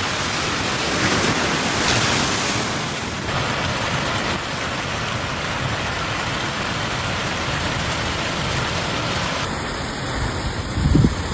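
Steady rushing noise of a heavy storm, pouring rain with wind. Near the end come low rumbling gusts of wind on the microphone.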